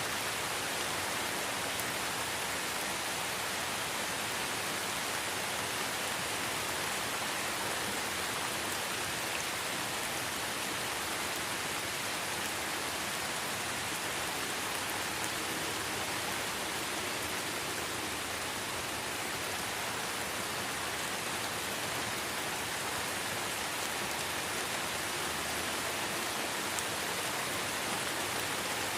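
Light rain falling in a forest: a steady, even hiss of many small drops, with no single drop standing out.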